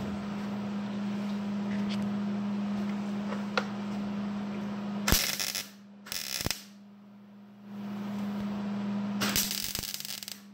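Short bursts of MIG welding, three stitches about half a second each, over a steady electrical hum, as a pop-up gas door is tacked into thin sheet metal.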